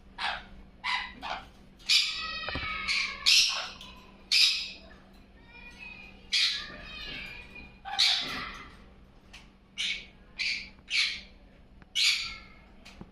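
Parrot squawking: about a dozen short, harsh calls, with a few longer, drawn-out calls among them.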